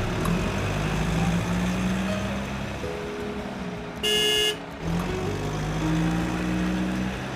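A vehicle engine running, with one short horn toot of about half a second about four seconds in.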